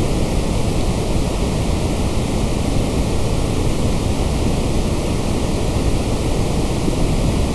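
Steady, unchanging electronically generated white noise, a constant hiss that is fuller in the low end.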